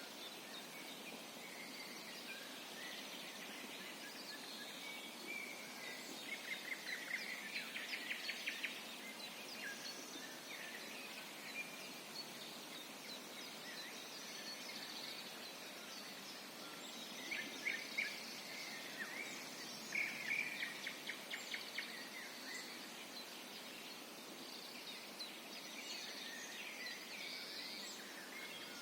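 A chorus of several songbirds singing in a spring forest, overlapping chirps and trills over a steady background hiss, with bursts of rapid trilled notes about a quarter of the way in and again past the middle.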